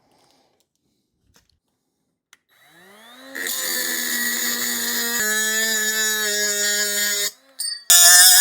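Rebar-cutting power tool, plausibly an angle grinder, spinning up with a rising whine about three seconds in and running at a steady high speed. It shuts off about seven seconds in, blips briefly, then starts again louder about eight seconds in, its pitch dipping as it bites into the rebar.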